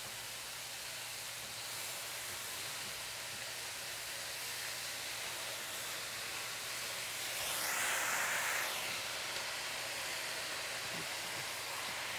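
Shredded potato sizzling in hot oil in a pan as it is stir-fried with a wooden spatula. The sizzle swells louder for about a second roughly two-thirds of the way through.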